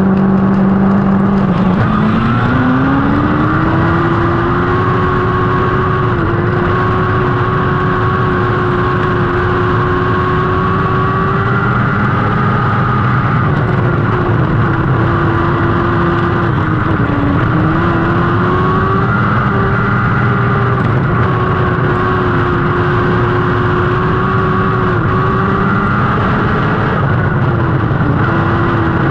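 Lightning sprint car engine at racing speed: the pitch climbs sharply about two seconds in as it accelerates, then holds a high, steady note with brief dips every several seconds where the throttle eases off and picks up again.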